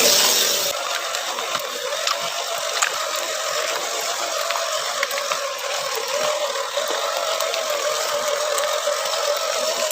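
Axial SCX10 RC crawler's electric drivetrain whining steadily, with rattling gears and a scatter of small clicks as it crawls. A loud hiss at the very start cuts off within the first second.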